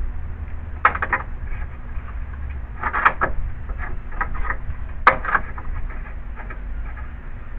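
Short clanks and knocks of a metal bracket being handled and worked, coming in three small clusters about two seconds apart, over a low steady rumble.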